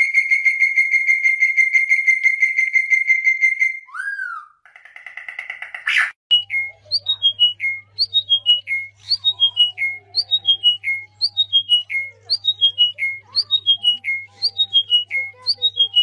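Birds calling. First a rapid, steady high trill for about four seconds, then a brief rising-and-falling whistle and a buzzy call. After a sharp cut about six seconds in, a bird repeats a quick run of falling whistled notes over and over, above a faint low steady hum.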